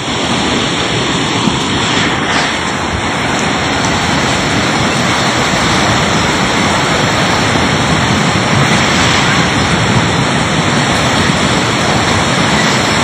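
Flash floodwater rushing in a torrent, a loud, steady rushing noise.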